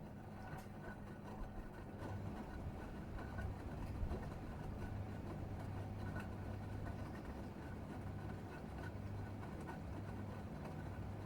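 Gorenje UseLogic 65165 washing machine running in the wash phase of a 40 °C Mix cycle: a steady low motor hum with faint scattered ticks.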